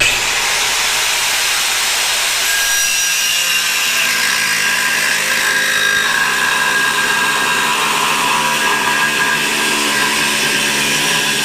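A power cutting tool scoring a straight cut line into the cast aluminum lower unit of a boat outdrive, a steady high-pitched cutting whine that starts abruptly and stops near the end.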